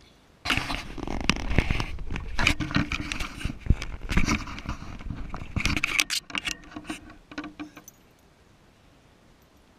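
Close handling noise of hard parts: rapid, irregular clattering, rattling and scraping from about half a second in until about eight seconds, then quiet.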